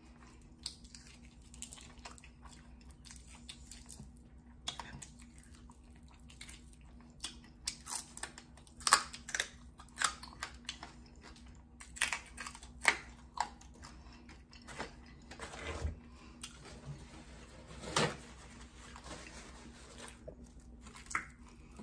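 Close-up chewing and crunching of crispy fried bone-in fish, with fingers tearing the fried fish apart. The crunches are irregular and start a few seconds in.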